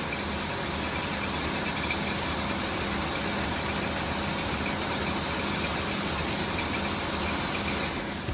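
Farm machinery engine running steadily, with an even mechanical noise and a faint steady hum.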